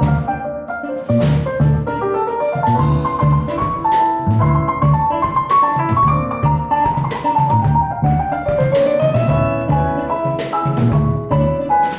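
Live jazz quintet of piano, saxophone, guitar, bass and drum kit playing together. Drums and bass keep a steady, even pulse under a melody line that climbs and then falls back.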